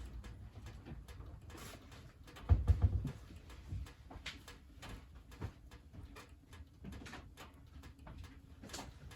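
Wood burning in a wood stove, crackling and popping with scattered sharp clicks, and a louder low rumble about two and a half seconds in.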